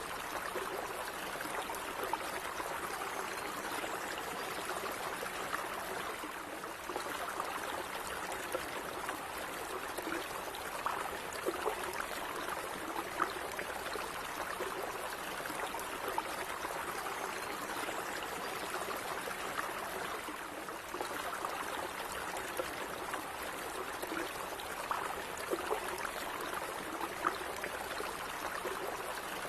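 Shallow stream running and trickling steadily over stones, with small splashes and gurgles throughout.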